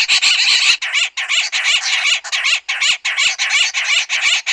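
Southern pied babblers calling: a rapid, harsh, rasping chatter that runs on almost without a break, as from a group calling together.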